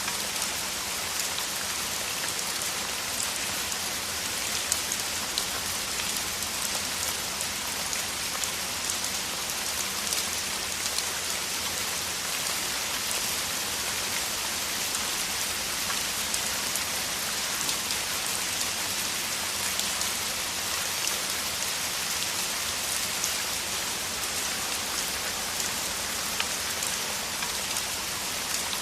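Heavy downpour: steady rain hissing on the ground, with individual drops ticking and pattering through it, at an even strength throughout.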